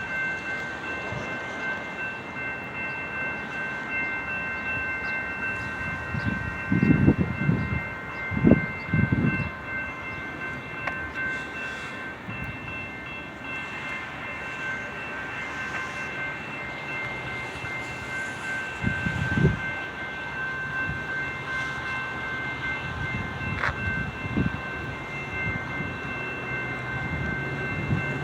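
Metra commuter train running into the station, a steady rumble under a set of high ringing tones that hold throughout. A few loud low thumps stand out, a cluster about seven to nine seconds in and one more near twenty seconds.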